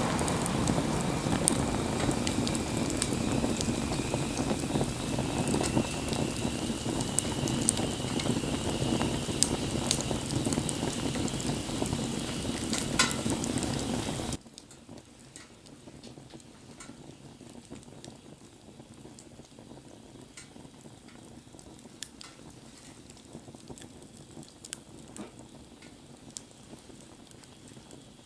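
Wood fire hissing and sizzling, with a faint whistle that rises slowly in pitch and scattered crackles. About halfway through the sound drops abruptly to a much quieter fire with only sparse crackles.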